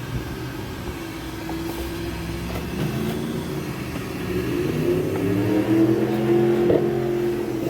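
An airboat engine passing, its pitch rising and the sound growing louder through the second half.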